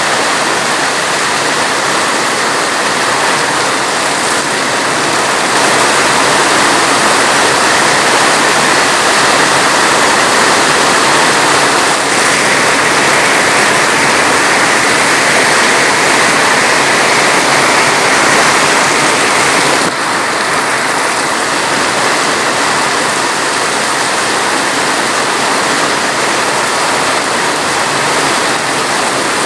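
Heavy rain falling as a dense, steady hiss, with a slight drop in loudness about two-thirds of the way through.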